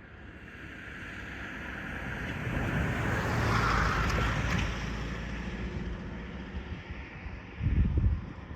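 A vehicle passing, its noise swelling to a peak a little past halfway and then fading, followed by a short gust of wind on the microphone near the end.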